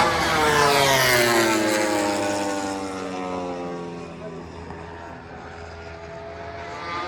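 A MotoGP racing motorcycle passes at speed, its high-revving engine note falling in pitch as it moves away and fades. Near the end a second bike's engine comes up as it approaches.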